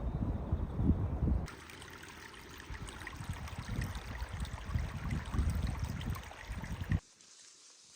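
Outdoor ambience: gusty wind rumbling on the microphone over a fine hiss of trickling water. The sound changes abruptly about a second and a half in and drops away sharply near the end.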